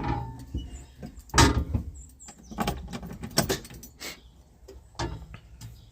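A few separate knocks and clicks with light rattling, about one a second and the loudest about a second and a half in; no engine is running.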